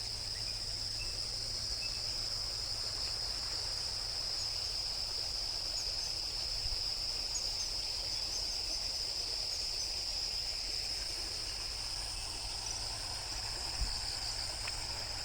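Insects chirring in a continuous, steady, high-pitched drone, with a few faint short chirps over it.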